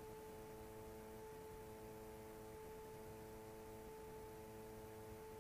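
Near silence with a faint steady electronic hum at one pitch, and a few fainter tones above and below it that switch on and off.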